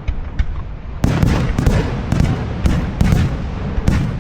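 Fireworks shells bursting overhead. After a quieter rumbling first second, a rapid, dense barrage of sharp booms begins, several a second, each echoing into the next.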